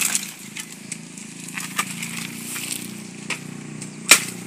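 Cashew branches and firewood being broken and handled: a series of cracks and knocks, with one loud sharp crack about four seconds in.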